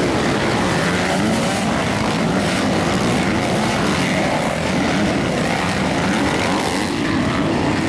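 Motocross bike engines running hard, their pitch wavering up and down as the throttles are worked.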